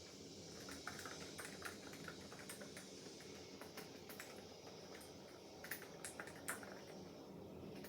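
Typing on a COX CF75 mechanical keyboard with orange switches: irregular keystrokes, with a few louder strokes a little past the middle, over a faint steady hum.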